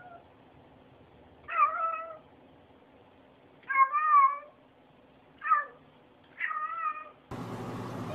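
Domestic cat meowing: four short meows with a few pauses between them, each bending up and down in pitch. Near the end a steady background hiss comes in.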